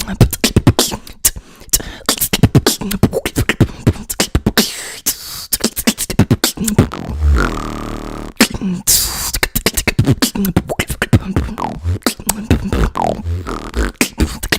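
Human beatboxing: a fast run of percussive mouth drum hits, with a held, pitched bass tone about halfway through.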